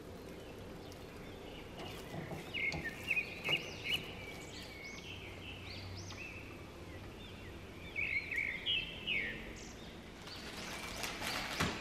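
Bird chirping in short rising-and-falling calls, in two bunches a few seconds apart, over faint background noise; near the end a short burst of rustling.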